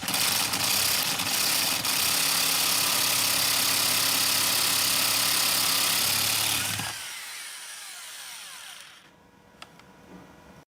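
Handheld rotary power tool running steadily at full speed for about seven seconds, then released and spinning down over the next couple of seconds.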